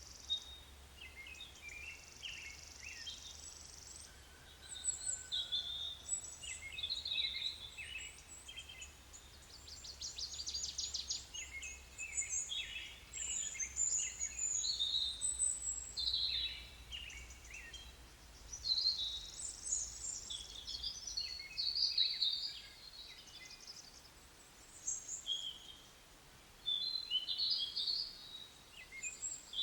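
Several songbirds singing and calling outdoors, short chirps and warbles overlapping throughout. A steady high buzz fills the first few seconds, and a fast rattling trill comes about ten seconds in.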